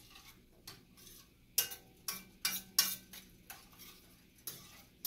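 A cooking utensil clinking against a pan in about seven sharp, irregularly spaced taps.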